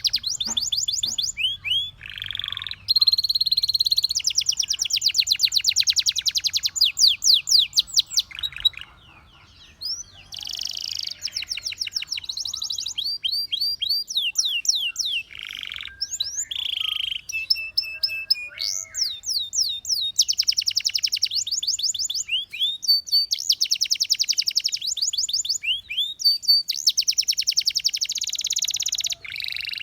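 Canary singing: long, rapid trills of repeated high notes and rolls, one phrase after another, with a short break about nine seconds in.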